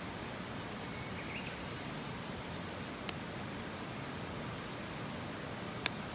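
Campfire burning with a steady hiss and two sharp pops, the louder one near the end, and a brief bird chirp about a second in.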